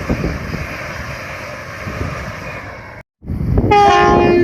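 Passing train's rumble fading away as it recedes. After a sudden cut to silence a loud rumble returns, with a short held tone near the end.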